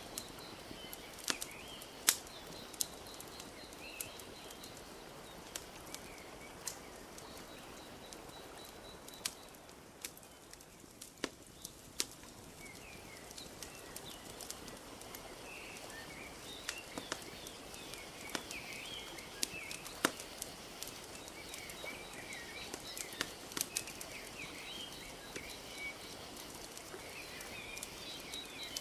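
Wood fire crackling, with sharp pops at irregular intervals, a few of them loud, over a soft steady wash of lapping lake water. Small birds chirp and trill throughout, falling quiet for a few seconds around the middle.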